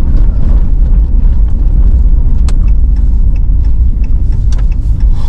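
Steady low rumble of road and engine noise inside a car driving through town, with one sharp click about halfway through.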